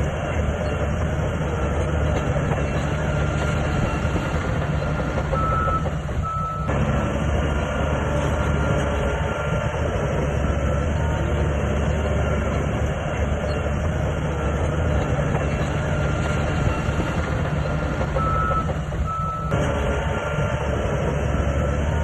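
Diesel engine of a SHANTUI bulldozer running steadily under work. Short high beeps of a reversing alarm sound twice, about a third of the way in and again near the end.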